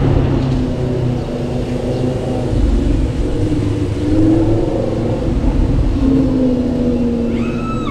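Lamborghini Huracán's V10 engine driving past at low speed, its pitch rising and falling with the throttle over a steady deep rumble.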